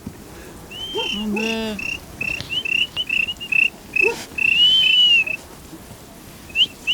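A shepherd whistling at the flock in runs of short, sharp high whistles, with one longer whistle that rises and falls about five seconds in. A brief lower call sounds about a second and a half in.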